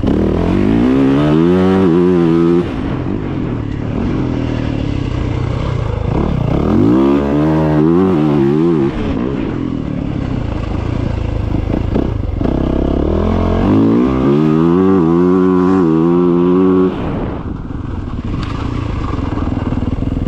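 Dirt bike engine under way, revving up three times with the pitch climbing each time, then dropping off sharply when the throttle is shut, with lower running between the pulls.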